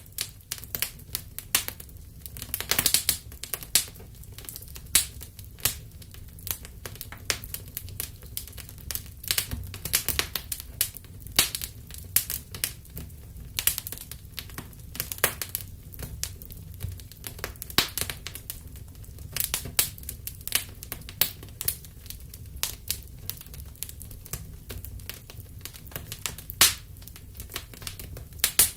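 Wood fire burning in a fireplace: irregular sharp crackles and pops, sometimes several a second, over a steady low rumble of the flames. The loudest pops come about three seconds in and near the end.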